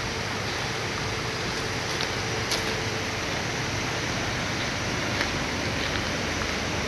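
Steady rushing roar of a large waterfall in heavy flow, swollen with typhoon rain.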